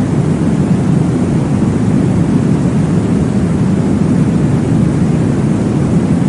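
Steady, deep whooshing noise of a womb-sound track for baby sleep, heaviest in the low range and unbroken throughout.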